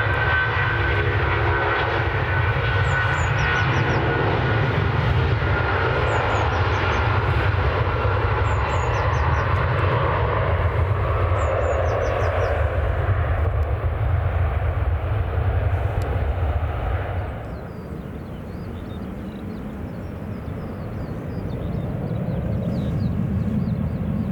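Jet engines of a departing Boeing 757 running at takeoff power: a loud steady rumble with a whine that slowly falls in pitch, dropping away sharply about two-thirds of the way through. A quieter rumble builds again near the end, and small birds chirp throughout.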